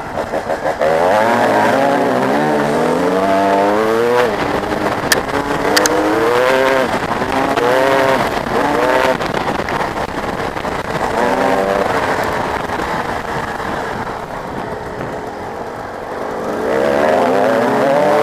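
Motocross dirt bike engines revving hard, the pitch climbing and dropping again and again with throttle and gear changes. The sound fades a little about two-thirds through, then grows louder again near the end.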